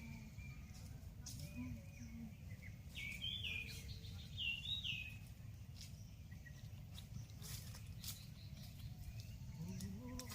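Steady low background rumble with a bird chirping briefly a few times about three to five seconds in, and scattered faint clicks.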